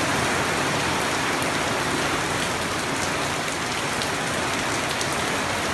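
Steady heavy rain falling, an even hiss of drops on the ground with occasional faint ticks of individual drops.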